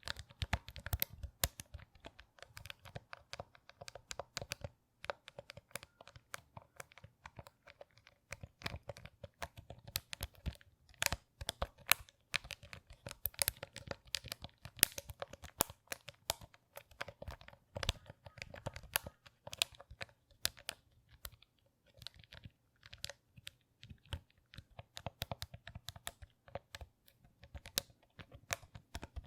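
Close-miked crinkling and crackling: a dense, irregular run of sharp little clicks, handled by hand as an ASMR trigger.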